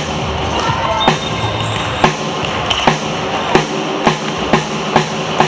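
A series of sharp thuds echoing in a large hall, about a second apart at first and coming faster toward the end, over background music.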